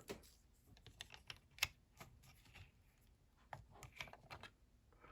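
Faint, scattered clicks of small plastic Lego pieces and minifigures being handled and set down, the sharpest about one and a half seconds in.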